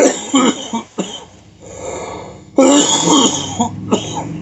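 A man coughing hard in two harsh fits of about a second each, with a softer breath between and a short cough near the end: coughing after drawing smoke from a pipe.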